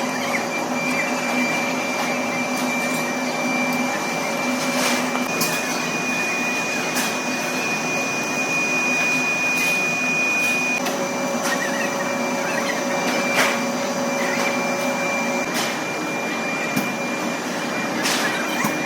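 Metalworking machine running steadily in a workshop, a continuous mechanical hum with a high whine and a few light clicks.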